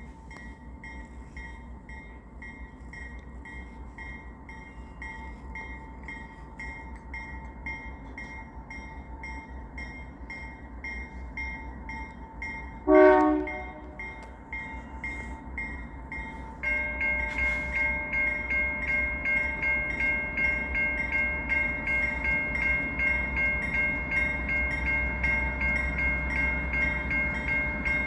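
Railroad crossing bells ringing steadily, with a train rumbling underneath. About halfway through, the lead GE C44-9W locomotive gives one short horn blast. A few seconds later a louder ringing joins and carries on to the end.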